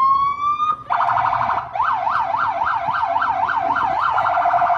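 Police boat's electronic siren. A rising wail stops about a second in, then gives way to a fast warble and then to quick up-and-down yelps, about four a second.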